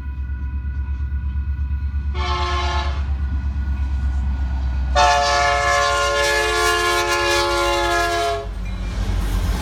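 Diesel locomotive sounding its air horn: a short blast, then a long one of about three and a half seconds. Under it runs the steady low rumble of the train's engine and wheels.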